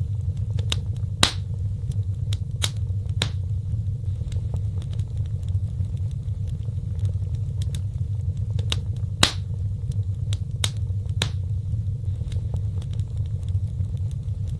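Wood fire crackling: scattered sharp pops and snaps, two of them louder than the rest, over a steady low rumble of the flames.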